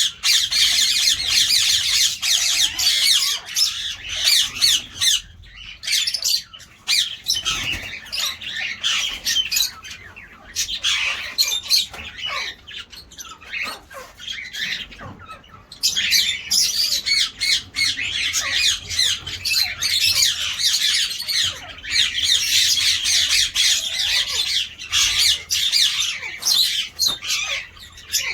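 Several ringneck parakeets squawking and chattering in dense, overlapping high-pitched calls, thinning out for a stretch in the middle and building up again about halfway through.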